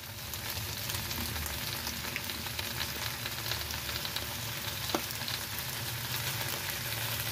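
Cabbage, carrot and fried tofu sizzling steadily in a hot wok, with a little water just added to the pan. A brief click about five seconds in.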